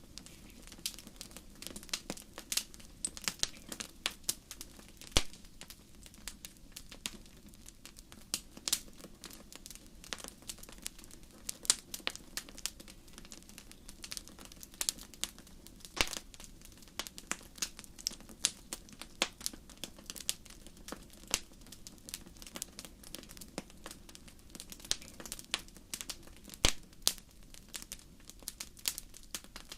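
Crackling fire: irregular sharp pops and snaps, a few louder than the rest, over a low steady background noise.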